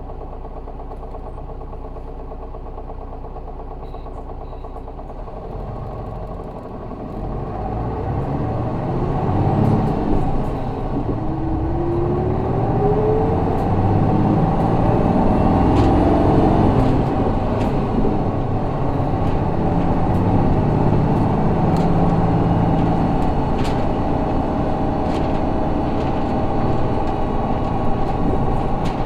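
Isuzu 6HK1 inline-six diesel of a city bus heard from inside the cabin: it runs at a low steady note, then about seven seconds in it pulls away under load, its revs climbing and held high as the bus accelerates.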